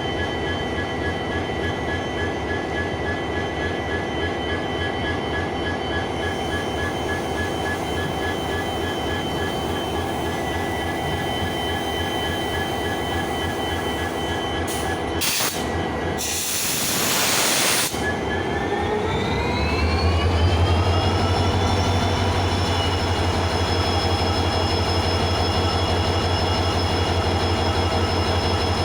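WDP4 diesel locomotive's two-stroke V16 engine running at idle with a fast low throb and a steady whine. About halfway through there is a short sharp hiss of released air. The engine then speeds up, its whine rising in pitch and its throb growing louder, and settles into a steady higher-speed run.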